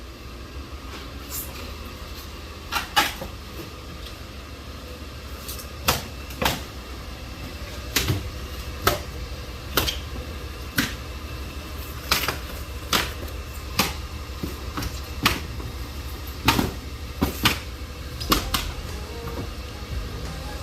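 A series of sharp knocks and clacks at irregular intervals, some in quick pairs, over a steady low rumble.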